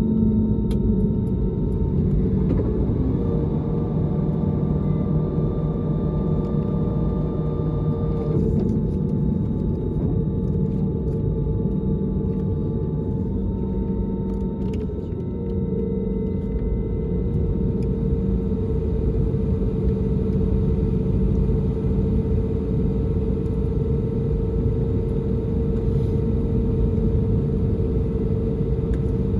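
Cabin noise of an Airbus A320neo heard from inside, with a steady rumble and the hum of its CFM LEAP-1A engines at steady thrust. Several steady engine tones shift in pitch or drop out a few times, near the start, about eight seconds in, and around halfway through.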